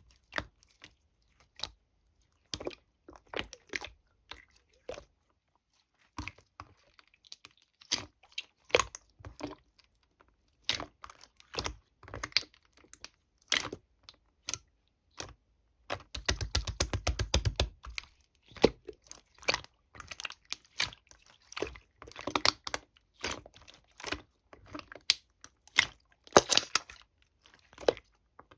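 Clear slime being worked by hand, giving irregular sticky pops and clicks as it is pressed, folded and pulled. Just past halfway comes a dense run of fast crackling for about two seconds.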